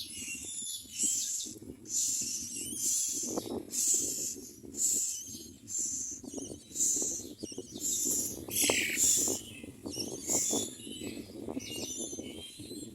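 Common myna nestlings giving repeated short, raspy, high-pitched begging calls, one or two a second, over rustling and scratching in the nest.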